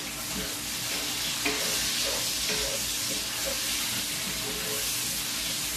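Flour-coated meat frying in hot oil in a pan, with a steady sizzle.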